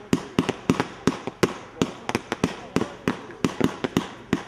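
Fireworks display firing a rapid, uneven volley of sharp bangs, about four a second.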